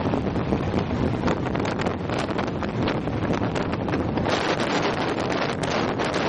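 Wind buffeting the microphone: a steady rough rumble with constant crackling.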